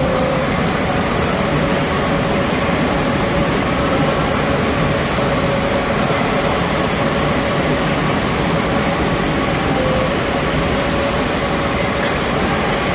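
Moskva-2020 metro train running at steady speed: a continuous rumble of wheels on rail with a faint steady whine over it.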